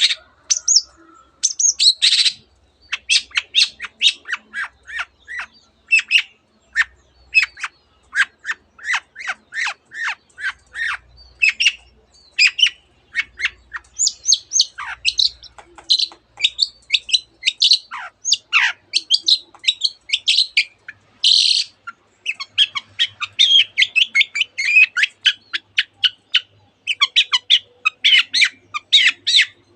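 Long-tailed shrike singing a fast, dense string of short high chirps and down-slurred whistles with a few harsh rasping notes, its song stuffed with mimicked canary and other birds' calls.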